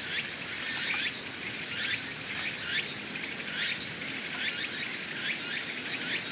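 Summer insects calling: a steady run of short rising chirps, about two a second, over a pulsing high-pitched buzz.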